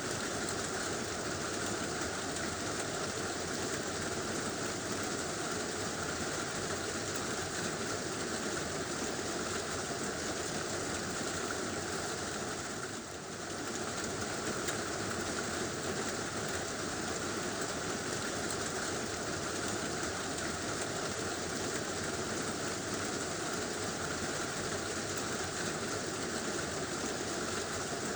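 Heavy rain falling steadily on a tin roof, a dense, even rush of drops that dips briefly about halfway through.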